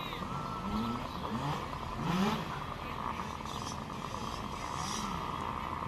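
Distant motorcycle engines revving up and falling back several times over a steady background drone.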